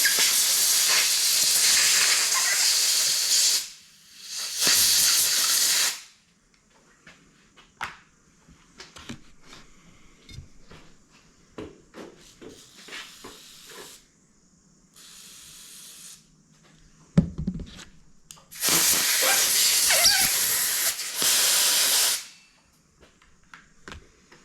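Compressed-air blow gun blasting dirt out of Stromberg carburettor parts: several long, loud hisses of air, with small clicks and knocks of the parts being handled between blasts.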